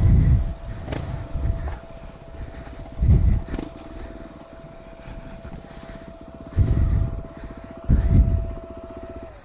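Dual-sport motorcycle engine running at low speed, with short bursts of throttle: one at the start, one about three seconds in, and two near the end.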